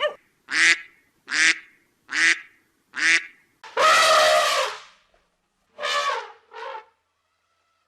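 Waterfowl calling: a run of short calls about one a second, then one longer drawn-out call, then two shorter ones.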